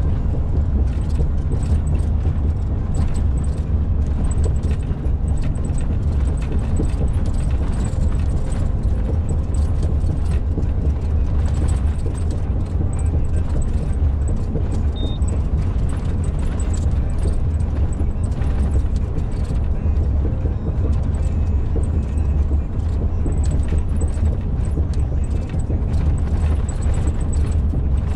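Truck driving along an old concrete-slab road surface, heard from the cab: a steady heavy low rumble from engine and tyres, with many short knocks and rattles as the truck jolts over the rough road.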